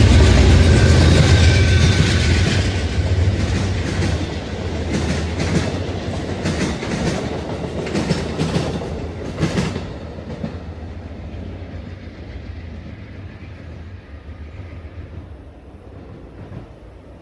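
Passenger train passing close by: a loud low rumble at first, then wheels clicking over rail joints as the cars go by, fading steadily over the second half as it moves away.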